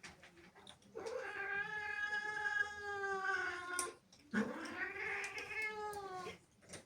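A domestic cat yowling angrily in two long, drawn-out caterwauls. The first starts about a second in and lasts nearly three seconds. The second follows at once, rising and then falling in pitch.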